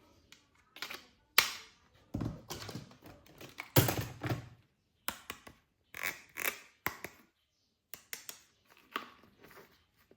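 Hard plastic clicks, knocks and short rattles from toy guns and their parts being handled, a dozen or so separate strikes with brief pauses between them.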